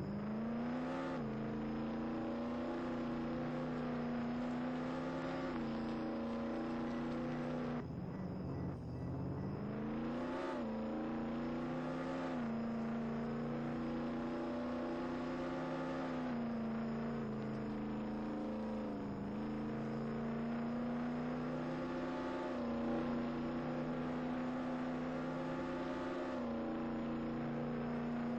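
Car motor running: it winds up over the first second to a steady high pitch, drops and climbs again about eight seconds in, then holds steady with small shifts in pitch.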